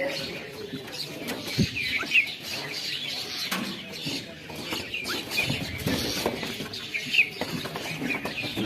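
A flock of birds chirping: many short, overlapping chirps with scattered sharp clicks and a few louder peaks.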